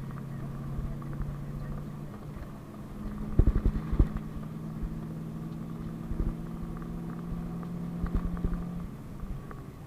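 PAZ-32054 bus's engine running, heard inside the passenger cabin; its pitch steps up about two seconds in and holds. Loud knocks and rattles come in clusters around three to four seconds in, with lighter ones later.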